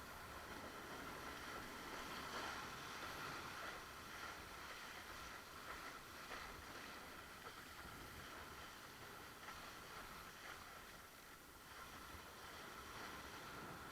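Steady rush and splash of water against a windsurf board under sail, with some wind noise.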